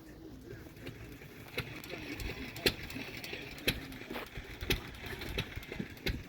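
Footsteps of someone walking at an easy pace, about one step a second, over a low outdoor rumble.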